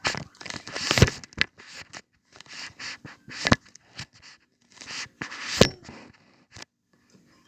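Clear slime being squeezed and pulled by hand: irregular sticky clicks, pops and crackles in short bursts, the loudest about a second in, midway and near the end.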